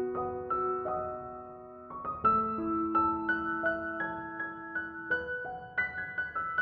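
Soft background piano music: a slow, gentle melody of single struck notes over sustained lower notes.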